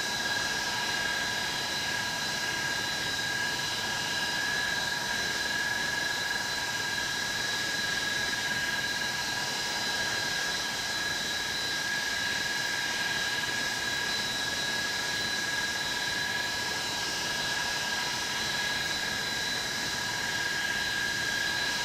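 Avro Vulcan B2's Bristol Olympus jet engines running steadily: a constant rushing hiss with a steady high whine over it.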